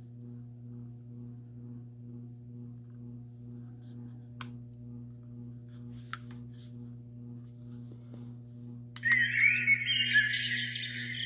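Portable baby noise machine playing a low, steady, faintly pulsing hum, with two clicks as its buttons are pressed. About two seconds before the end, another click switches it to a much louder, high, warbling chirping sound.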